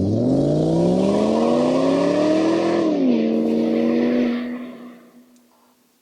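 Electric motor of an oil-film strength test machine speeding up, its whine rising in pitch for about three seconds, dipping slightly, then holding steady before fading out near the end.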